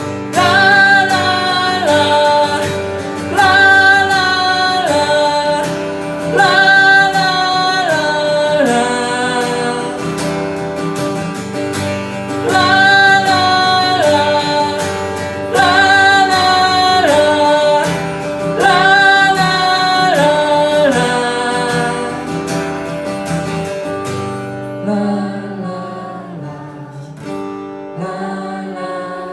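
Strummed acoustic guitar under a wordless sung melody of held notes that step down in phrases repeating about every three seconds. The singing drops away about twenty-four seconds in, leaving the guitar playing more quietly.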